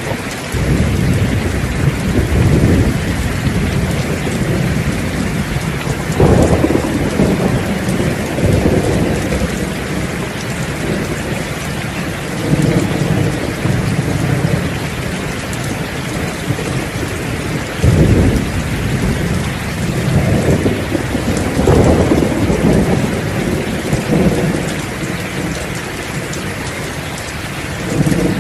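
Steady heavy rain with thunder rolling again and again, low rumbles swelling every few seconds, a few of them breaking in suddenly.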